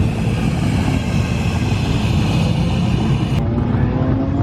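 Car engines running with a loud, low exhaust rumble. A higher hissing layer cuts off abruptly about three and a half seconds in, and near the end one engine's pitch rises as it accelerates.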